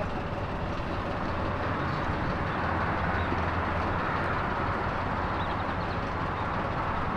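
Steady rumble of vehicles and outdoor background noise, with no single sound standing out.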